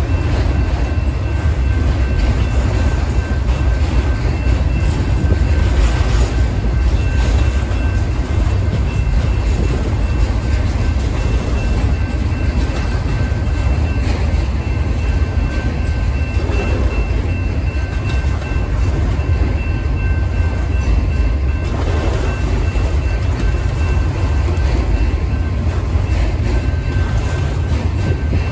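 Freight train of enclosed autorack cars rolling steadily past, a continuous low rumble of wheels on rail with a thin steady high squeal that fades about two-thirds of the way through.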